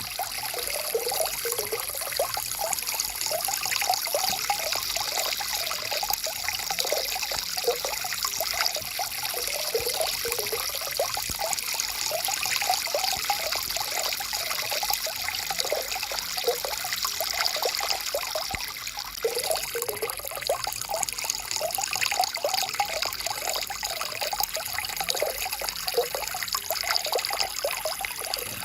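Shallow stream water flowing and trickling steadily over rocks, with many small splashes and gurgles.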